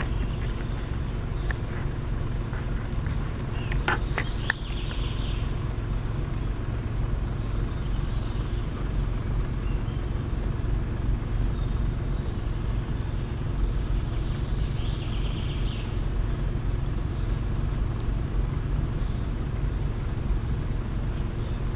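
A bird's short, high call notes repeating every two seconds or so over a steady low rumble, with a few clicks about four seconds in.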